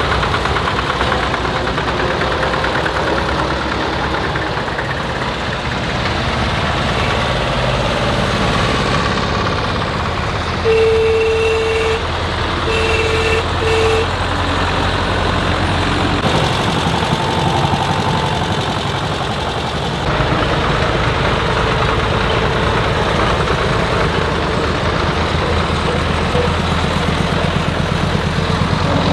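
Tractor engines running as the vehicles drive in a parade, with a horn sounding once long and then twice in short toots about eleven to fourteen seconds in.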